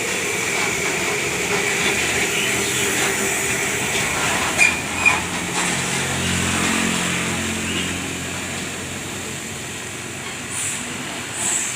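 Heavy truck traffic passing on a road, with a truck's diesel engine droning low as it goes by through the middle. Two short high squeaks come just before, and two brief hissing bursts near the end.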